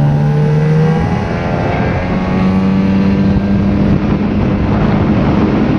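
9.8 hp outboard motors running at full throttle just after a race start. The engine pitch is still climbing slightly for about the first second, then settles into a steady high drone as the boats plane off.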